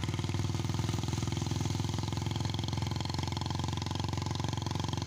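Motorcycle engine running steadily at an even speed, with a fast, regular pulse.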